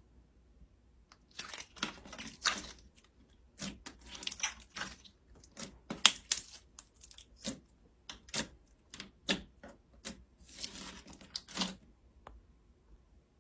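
Slime being pressed and pulled by hand, giving irregular sharp pops and crackles, with two longer crackling stretches, one early and one near the end.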